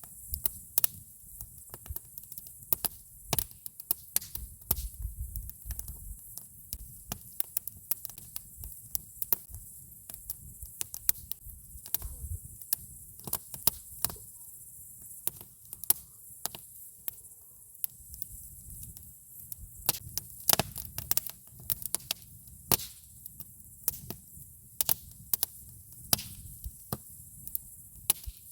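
Wood campfire crackling: irregular sharp snaps and pops, several a second, with a low rumble underneath.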